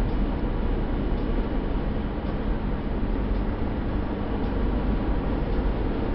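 Steady low engine and road rumble heard inside a truck cab while driving, with faint ticks about once a second.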